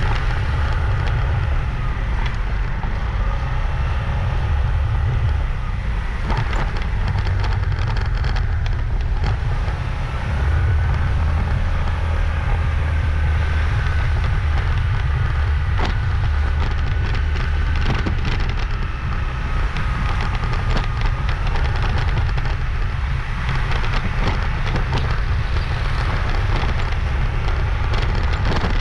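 Motorbike riding along a road: heavy wind buffeting on the microphone over the bike's running engine, with scattered rattles and clicks.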